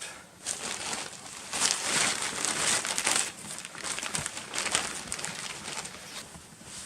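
Shelter sheeting rustling and crinkling as it is handled and pulled into place, in irregular rushes.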